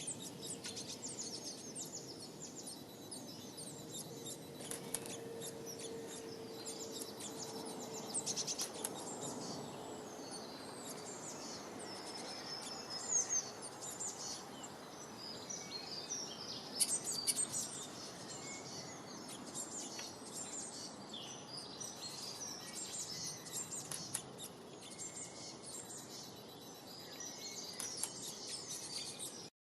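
Many small birds chirping and twittering at once, short overlapping calls over a steady outdoor background hiss, with a faint low hum in the first third.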